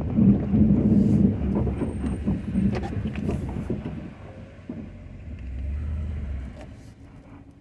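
Ford F-250 pickup truck running, a low rumble that swells briefly about six seconds in and then fades away.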